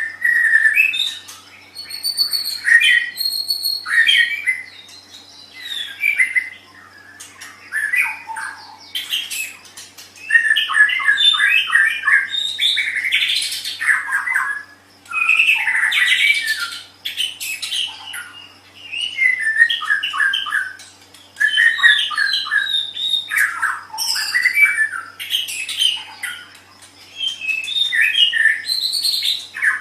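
White-rumped shama (murai batu) singing: a long run of varied phrases of whistled glides and rapid repeated notes, broken by short pauses.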